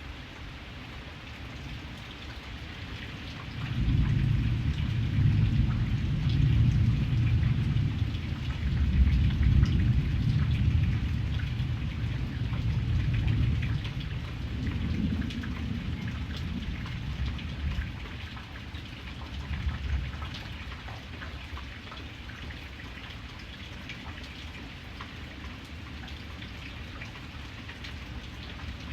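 Steady rain falling, with a long roll of thunder that starts abruptly about four seconds in, rumbles for about ten seconds and then fades away over several more.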